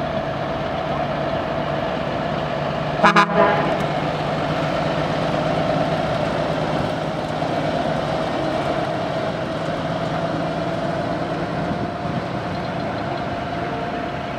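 1958 Peterbilt's Cummins diesel engine running steadily as the truck rolls by, with a quick triple toot of an air horn about three seconds in.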